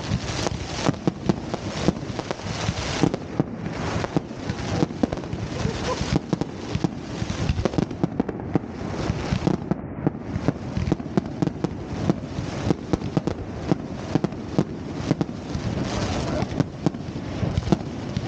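Fireworks display: a dense, continuous run of bangs and crackling shells, several a second.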